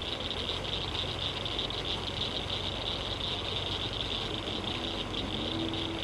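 Evening insect chorus, a dense high trilling that goes on steadily, over a steady low hum. Some low pitched calls join in during the second half.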